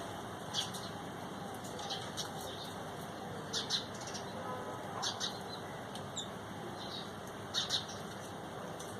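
Small birds giving short, sharp, high chirps every second or two, several of them in quick pairs, over a steady background hiss of outdoor noise.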